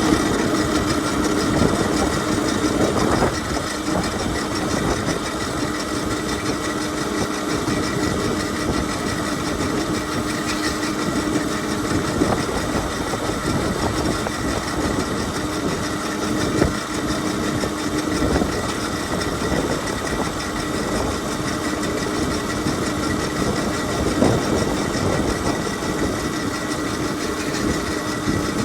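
Qronge X1 Spark electric dirt bike ridden in mode 1: its electric motor gives a steady whine that holds at one pitch after rising just before, over a rough, noisy rumble from the ride.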